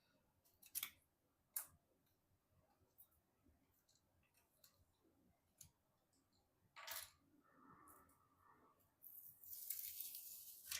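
Faint handling sounds: a few sharp clicks, a short scrape about seven seconds in, then a longer rustle near the end.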